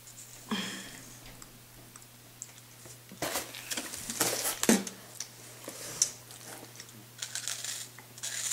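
Plastic snack packaging crinkling and rustling in irregular bursts, loudest a little past the middle and again near the end.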